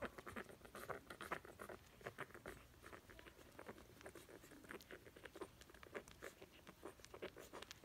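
Puppies moving about: soft, irregular pattering and scratching of small paws and claws, with scattered light clicks.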